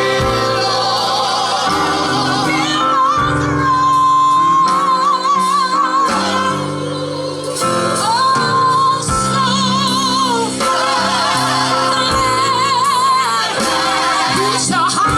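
Live gospel singing with band backing: a lead voice holds long notes with vibrato, backed by sustained instrumental chords and bass.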